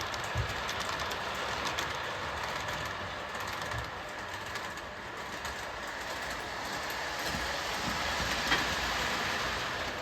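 O gauge Williams by Bachmann FM Trainmaster model diesel locomotive running on the track: a steady rolling noise from the motors and wheels on the rails, with light clicking and one sharper click about eight and a half seconds in.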